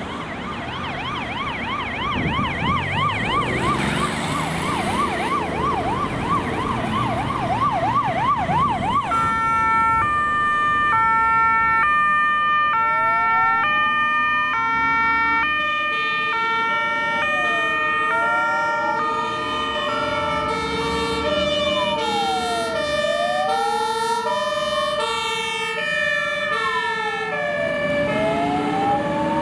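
Emergency-vehicle sirens on a response run: a fast yelping siren at first, then from about nine seconds in several overlapping two-tone hi-lo sirens together with a slow rising and falling wail.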